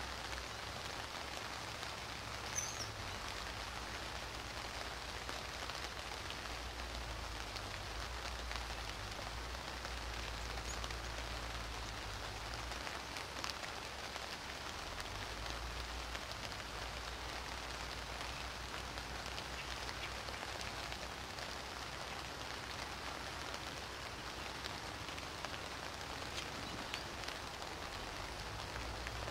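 Steady rain falling, an even hiss throughout, with one brief sharp tick about two and a half seconds in.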